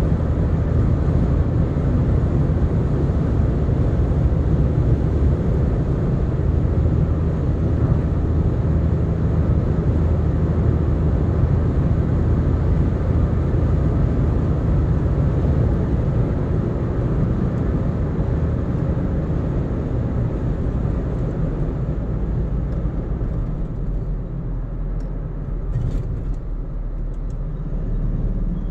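Steady road and engine noise of a car cruising on an expressway, heard from inside the cabin: a dense low rumble of tyres and engine that eases slightly near the end.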